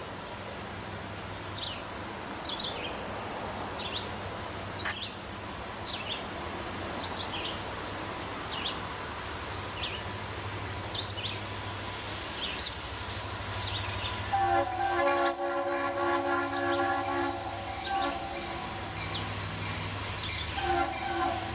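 Diesel locomotives of a freight train rumbling steadily as the train approaches, with short high chirps over them. The lead locomotive's air horn sounds a long chord-like blast about two-thirds of the way in, and another blast starts near the end.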